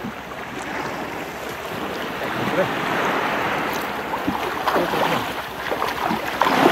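Sea water lapping and splashing around a small boat: a steady wash, with sharper splashes in the last couple of seconds.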